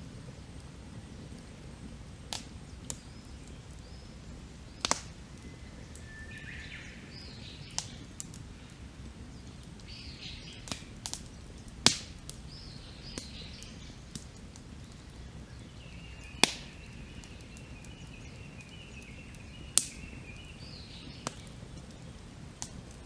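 Wood campfire crackling with sharp, irregular pops, the loudest about halfway through, over a low steady hiss, while wild birds call and chirp in the background, one holding a warbling call for a few seconds past the middle.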